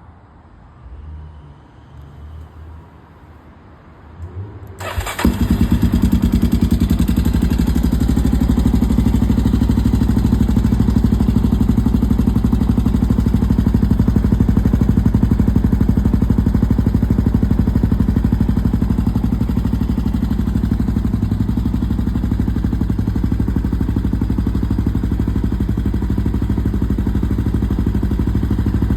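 Honda XR250's single-cylinder four-stroke engine, breathing through a Moriwaki aftermarket muffler, starts about five seconds in and settles into a steady idle.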